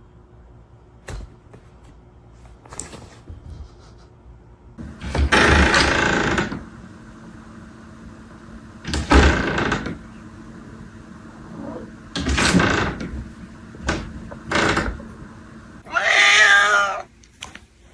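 Several loud, short bursts of noise, then a cat meowing once near the end.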